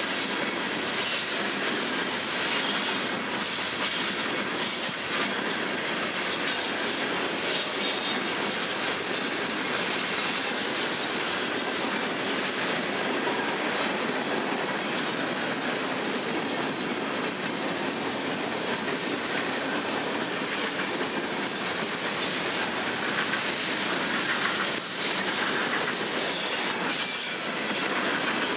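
Freight train cars, mostly tank cars and covered hoppers, rolling steadily past at close range: a constant rumble of wheels on rail with clacking over the joints and intermittent high-pitched wheel squeal, strongest in the first third and again near the end.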